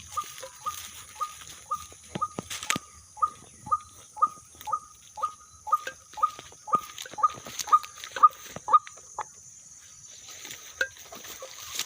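Footsteps squelching through a wet rice field at a walking pace, about two steps a second, stopping about nine seconds in. Behind them, a steady high chirring of night insects.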